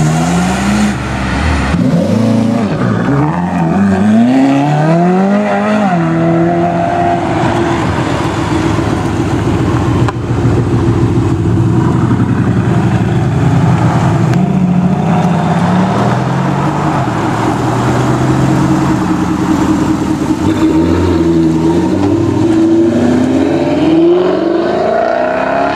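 Supercar engines revving and accelerating, the pitch repeatedly rising and falling as they go through the gears.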